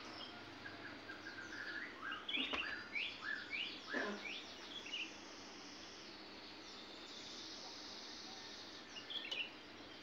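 Small birds chirping: a run of short, quick notes from about one and a half to five seconds in, and a brief burst again near the end, over a steady background hiss.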